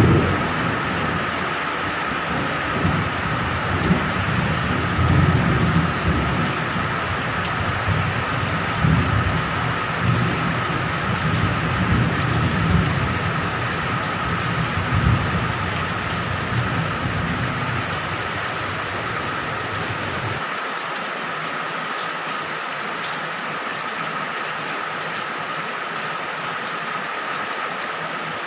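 Steady rain falling, with thunder rumbling low and rolling underneath that stops abruptly about twenty seconds in, leaving only the rain hiss. A thin steady high tone runs beneath the rain.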